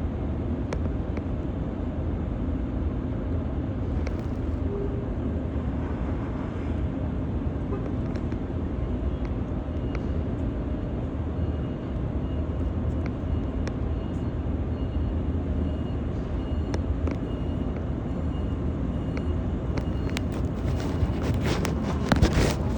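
Steady low rumble of a running vehicle. A few sharp knocks and clicks come near the end.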